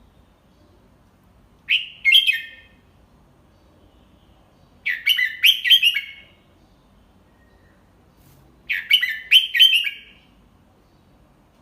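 Red-whiskered bulbul singing three short song phrases, each a quick run of several notes lasting about a second, a few seconds apart.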